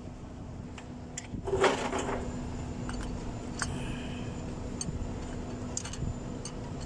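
Metal engine parts and tools clinking and knocking as the rocker arm assembly is set and bolted onto a Mercedes-Benz Actros truck engine's cylinder head. The loudest clank comes a little under two seconds in, with lighter clicks after it, over a steady low hum.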